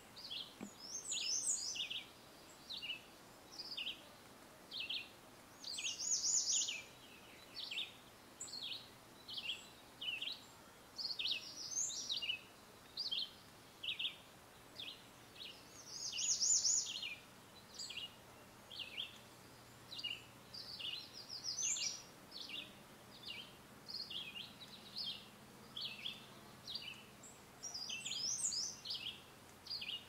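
Songbirds chirping: a steady run of short, high chirps about two a second, with a louder, longer song phrase every five or six seconds.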